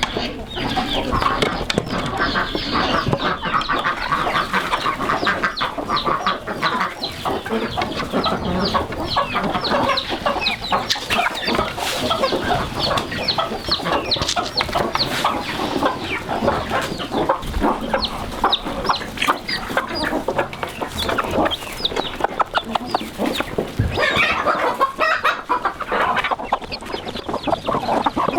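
A flock of chickens clucking continuously, many birds calling over one another in a dense, busy chatter.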